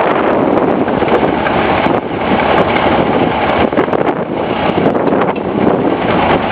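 Steady noisy running of a railway locomotive pushing a caboose onto a turntable, with wind buffeting the microphone. Faint clicks and ticks are scattered through it.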